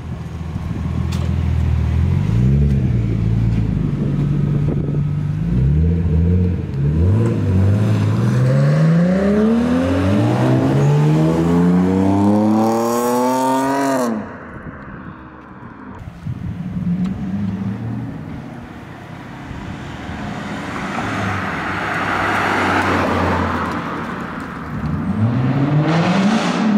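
Cars accelerating away one after another. One engine revs up with a long rising pitch for several seconds, then cuts off suddenly about halfway through; later a car passes with a swelling rush of noise, and another engine begins revving up near the end.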